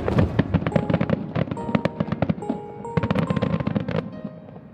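Fireworks crackling: a dense, rapid run of sharp pops and bangs that dies away near the end, over music playing in the background.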